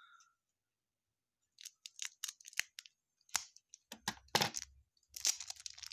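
Trading card pack being handled and opened: a run of sharp clicks and crackles, then dense crinkling of the pack wrapper starting near the end.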